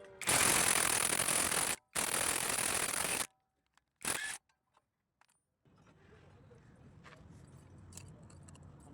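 Two long, loud hissing bursts of about a second and a half each, then a short third burst, followed by faint background with a few light clicks.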